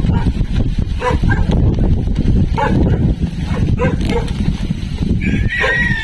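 Dogs barking repeatedly, short barks about once a second, over a heavy low rumble.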